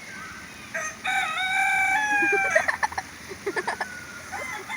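A rooster crowing: one long call of about two seconds, followed by bursts of quick clucking.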